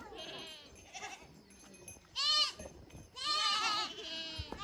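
Goats bleating: several separate high-pitched calls, the loudest about two seconds in, followed by another about a second later.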